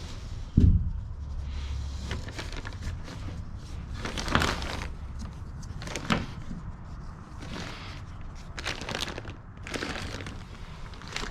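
A heavy thump about half a second in, then a series of scrapes and rustles as cargo and tie-down gear are handled inside a box truck's cargo area.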